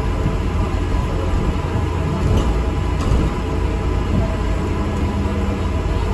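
Steady low rumble of an ADL Enviro400 MMC double-decker bus on the move, heard from on board: engine and road noise. A faint steady tone comes in about five seconds in.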